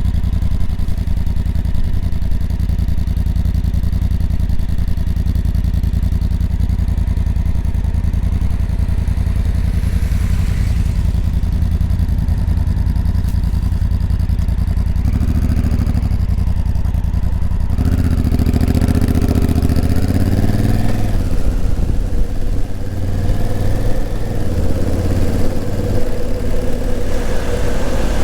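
Honda CRF1000L Africa Twin's parallel-twin engine running, heard from the moving motorcycle. It holds steady revs for about the first fifteen seconds; from about eighteen seconds in the revs rise and fall repeatedly.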